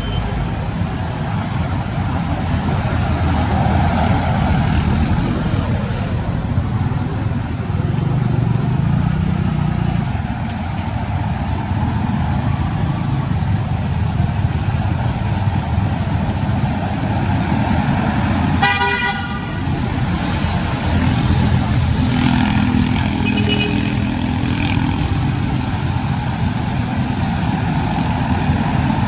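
Steady rumble of road traffic, with a vehicle horn tooting once, briefly, about two-thirds of the way through.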